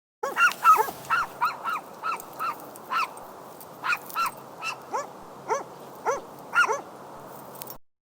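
A dog barking repeatedly in short single barks, about two a second, over a faint steady hiss. The barking cuts off abruptly near the end.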